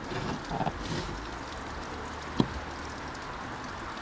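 Garden-hose water spraying and splashing through the dirt-clogged coil of a window air conditioner, a steady hiss of running and dripping water. A single sharp knock about two and a half seconds in.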